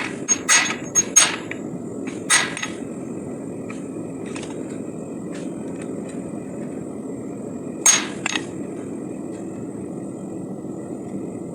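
Hammer striking hot SAE 5160 steel on an anvil during hand forging. There are four quick blows in the first second or so and another about two seconds in. Then comes a pause with a steady rushing noise underneath, and a single sharp blow about eight seconds in, followed by a lighter tap.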